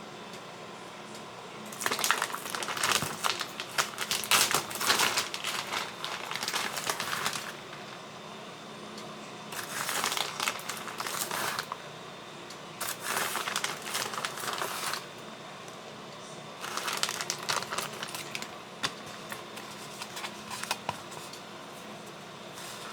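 Packaging being crinkled and handled in four bouts of a few seconds each, with a steady low hum in the pauses.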